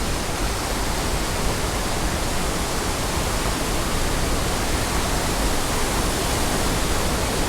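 Steady, unbroken rushing of a waterfall on a steep mountain creek.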